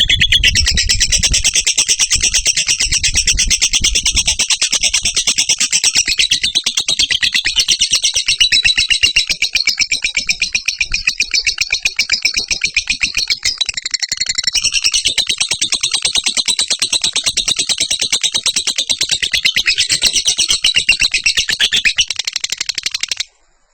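Lovebird ngekek: one long, unbroken run of rapid, shrill chattering kept up without pause, which cuts off suddenly near the end. A low rumble sits underneath in the first few seconds.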